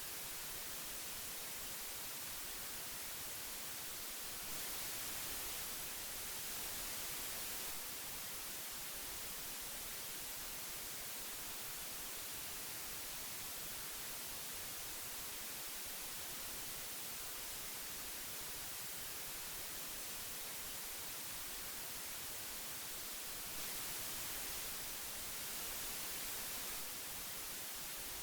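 Steady hiss of old magnetic tape playback, an even noise strongest in the high frequencies, growing slightly louder for a few seconds twice.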